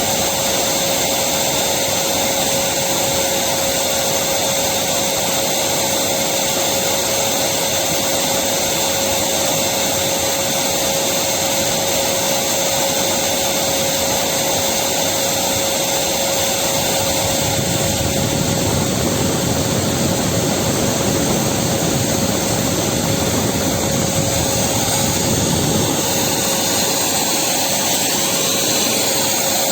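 Electric vacuum cleaner running continuously: a steady rush of air with a constant motor whine.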